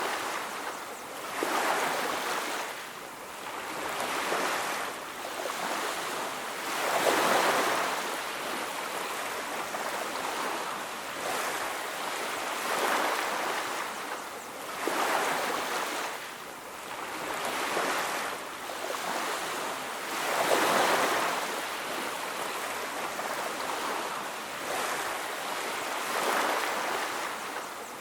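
Ocean waves breaking on a beach, the surf swelling and falling back every two to three seconds in a continuous rushing wash.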